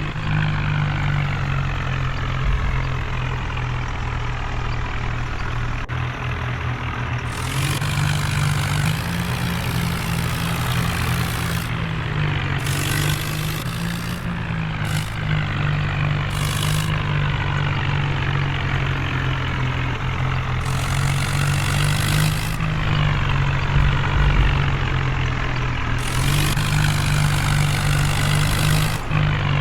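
Tractor engine running steadily under power, a continuous low drone, with several bursts of hiss each lasting a second or two.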